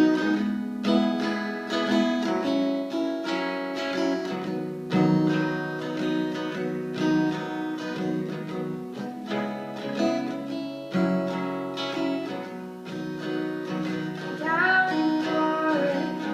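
Acoustic guitar playing an instrumental passage of a song, chords strummed and picked. A singing voice comes back in near the end.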